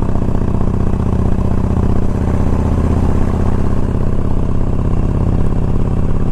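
2007 Harley-Davidson FLHT's 96 cubic inch V-twin engine running steadily under way, heard from the rider's seat. The bike is cruising at road speed in a high gear.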